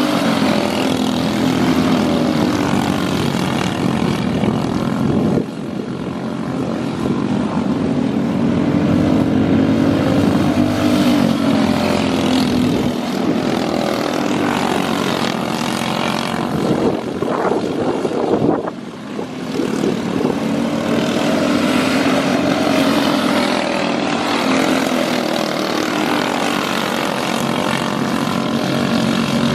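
Small engines running on a dirt track, their pitch swelling up and falling back over and over as the throttle is opened and closed, with brief drops in level about five and eighteen seconds in.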